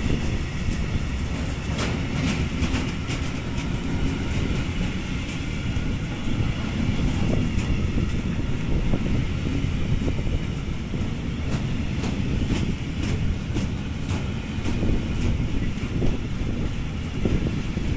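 Freight train of open gondola wagons rolling slowly past at close range as it comes to a stop, a steady low rumble of wheels on rail with scattered sharp clicks.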